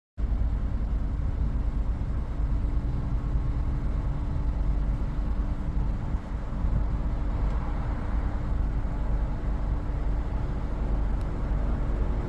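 Steady rumble of a vehicle on the move, heard from inside: road and engine noise, heaviest in the low bass, with a constant hum over it. It cuts in abruptly just after the start.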